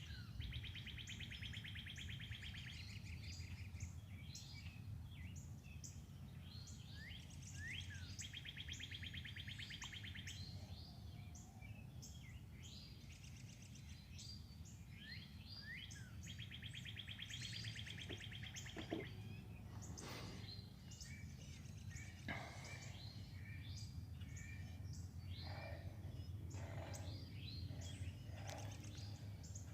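Wild songbirds singing and chirping, with one bird repeating a fast, even trill of about two and a half seconds three times, roughly every eight seconds. A steady low hum lies underneath.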